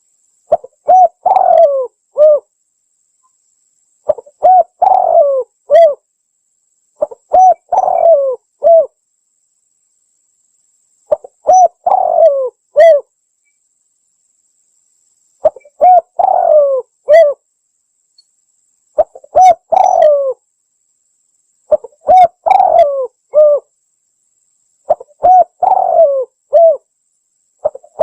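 Spotted dove (tekukur) cooing, a phrase of several short notes about every three to four seconds, eight phrases in all. It is the kind of call used as a lure to draw wild doves in.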